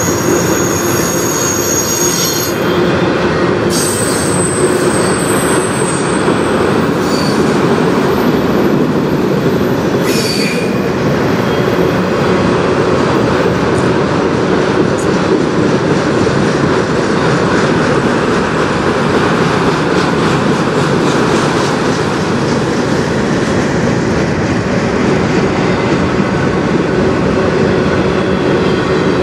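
Freight train of autorack cars rolling past with a steady, loud rumble and rattle of steel wheels on rail. High-pitched wheel squeal sounds over it in the first few seconds and again briefly around four and ten seconds in.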